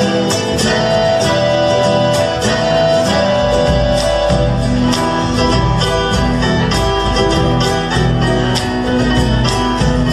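Argentine folk music played on guitars, with regular strummed strokes; a deeper bass fills in about three and a half seconds in.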